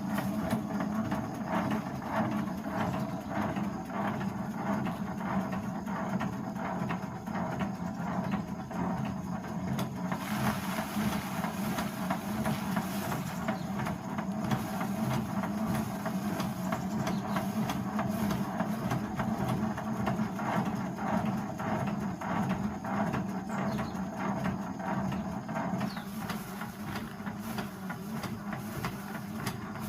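A motor-driven machine running steadily with a continuous dense rattle over a low hum.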